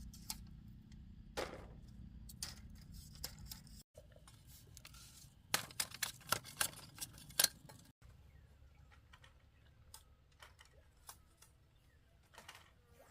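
A series of sharp knocks and taps over a low steady hum, with a quick run of louder knocks in the middle.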